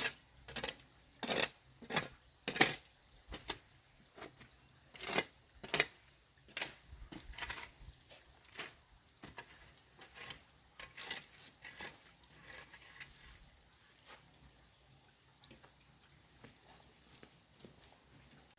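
A series of irregular sharp knocks and taps, close together and loudest in the first half, then thinning out and fading after about fourteen seconds.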